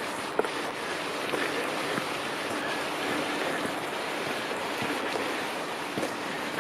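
Steady rushing of a stream, with a few faint ticks scattered through it.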